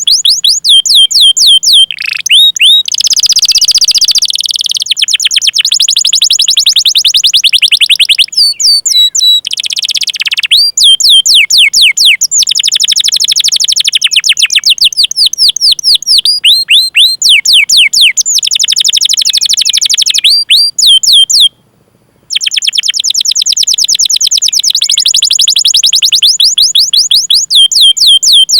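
Domestic canary singing close up: long rolls of rapid, evenly repeated high chirps and trills, many notes sweeping down in pitch, broken by one short silence about three quarters of the way through.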